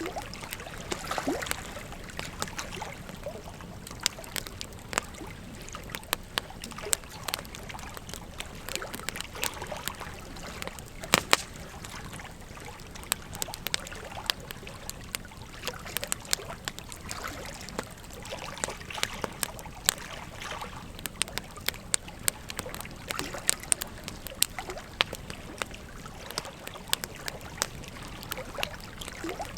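Wood fire crackling, with frequent sharp irregular pops and snaps, the loudest about eleven seconds in, over the steady rush of a river.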